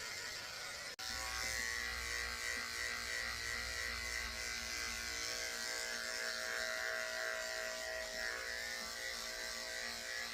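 Electric dog grooming clippers with a number 7 blade switch on with a click about a second in, then run with a steady hum while shaving a toy poodle's coat.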